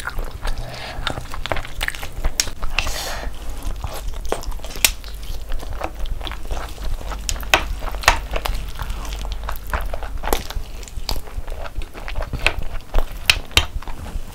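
Close-miked eating: biting and chewing with a dense, irregular run of wet smacking and clicking mouth sounds.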